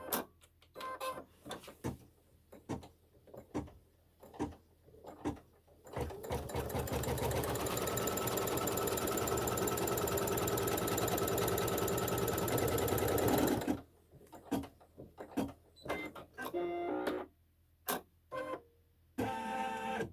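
Embroidery machine sewing a seam stitch: separate stitches tick at first, then about six seconds in it runs at full speed for about seven seconds and stops, followed by scattered clicks and short whirring sounds.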